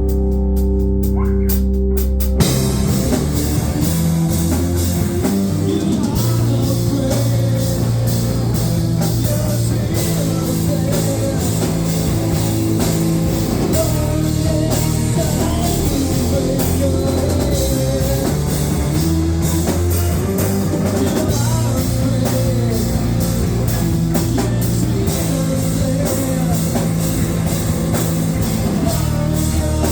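Rock band playing: sustained guitar and bass notes, then the drum kit and full band come in about two seconds in and play on at a steady beat.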